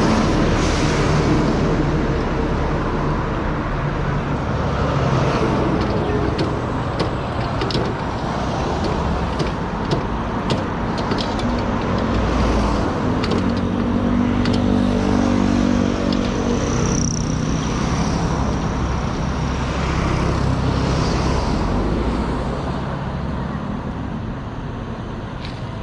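Steady motor-vehicle and road-traffic noise, with scattered clicks and a short high-pitched hiss about sixteen seconds in.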